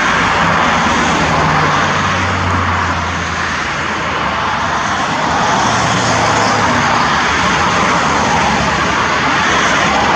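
Airbus A320 jet airliner's twin turbofan engines: a loud, steady rush of jet noise with a low hum underneath, easing slightly for a moment a few seconds in.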